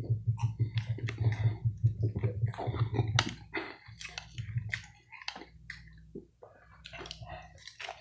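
Close-miked chewing of soft pancake, with wet mouth clicks and smacks, louder in the first few seconds and quieter after.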